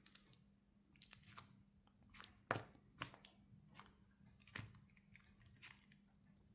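Faint, scattered taps and light knocks of a rubber stamp being inked and pressed onto tape on a tabletop, a few sharper taps standing out in the middle.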